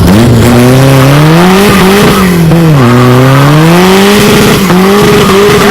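Custom truck engine revving loudly. The pitch climbs, drops about three seconds in, then climbs again and holds steady near the end.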